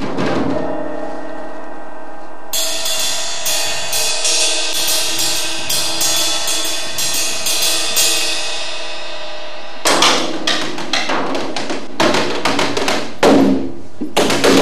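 Live percussion music. Ringing sustained tones, then from about two and a half seconds in a steady run of sharp, bright strikes about twice a second. From about ten seconds in come denser, louder strikes.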